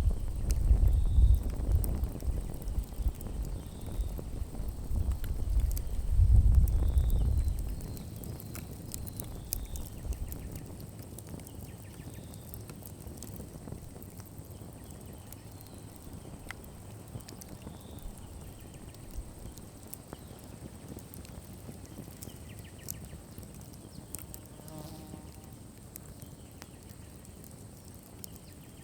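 Campfire burning, with scattered crackles and pops. A low rumble dominates the first seven seconds or so, then drops away, and a faint steady high buzz runs underneath.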